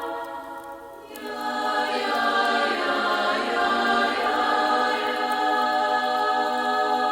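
Throat singing: a held droning note rich in ringing overtones. It fades just after the start, and a new drone swells in about a second in and holds steady.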